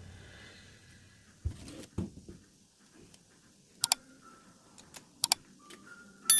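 Small sharp clicks and taps of tools and phone parts being handled during a smartphone teardown: about half a dozen scattered ones, the loudest near the end.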